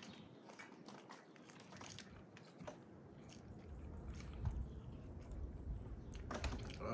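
Someone biting and chewing KFC fried chicken close to the microphone: irregular short crunches and mouth noises, with a low rumble coming in about halfway.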